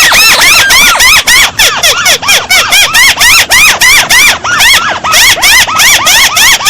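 Paddy-field crake (burung tikusan sawah) calling in a loud, unbroken series of arching notes that rise and fall in pitch, about four a second.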